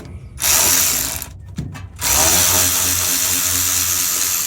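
Cordless battery ratchet spinning, backing out bolts: a short run about half a second in, then a longer steady run from about two seconds in.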